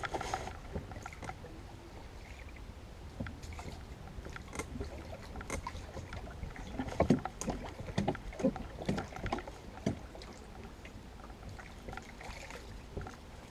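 Small dinghy being worked along with an oar: scattered knocks, clunks and splashes from the oar and hull, busiest from about six to ten seconds in.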